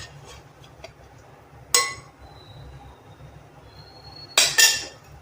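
Kitchenware clinking: three sharp, ringing knocks of metal or glass, one a little under two seconds in and two in quick succession near the end, over a low steady hum.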